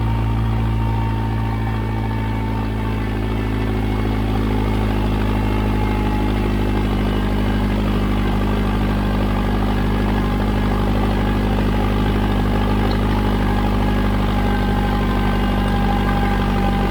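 Standard Triumph 23C four-cylinder diesel engine of a Kramer Export tractor running steadily at a constant speed.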